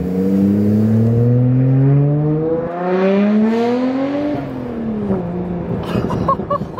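Nissan Skyline GT-R R33's RB26DETT twin-turbo straight-six through a Tomei titanium exhaust, heard from inside the cabin, accelerating hard: the engine note climbs steadily for about four seconds, then falls away.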